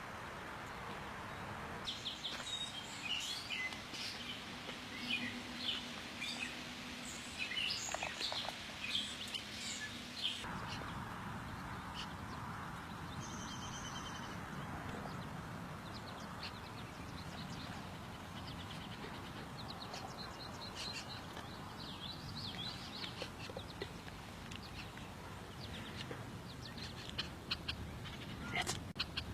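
Several songbirds chirping and calling in quick short notes over a steady background hiss of outdoor ambience. The background changes abruptly about a third of the way through, and the chirping thins out for a while before picking up again near the end.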